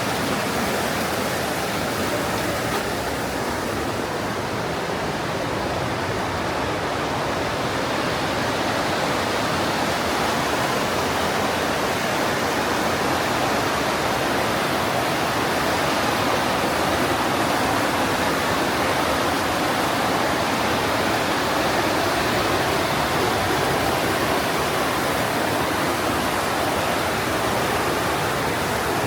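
Partnach River, a glacial-meltwater mountain stream, rushing and splashing through a narrow limestone gorge: a steady, unbroken rushing of water.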